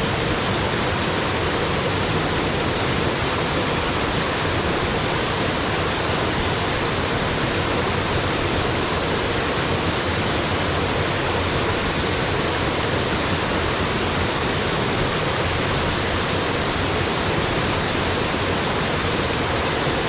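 Waterfall pouring, a steady, unchanging rush of falling water.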